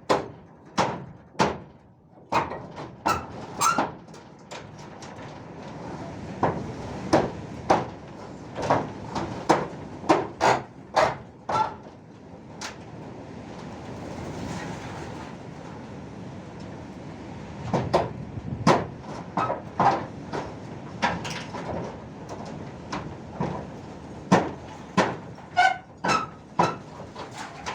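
Irregular hammer blows and knocks of roof dismantling work, at times several a second, a few with a short metallic ring. In the middle the blows pause while a rush of noise swells and fades.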